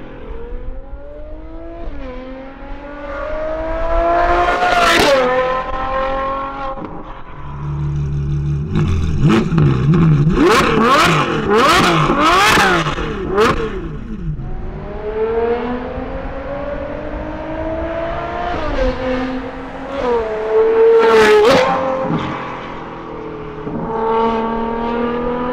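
Ferrari sports car engine pulling through the gears, its pitch climbing and dropping back at each shift. In the middle comes a run of quick revs up and down with sharp cracks from the exhaust.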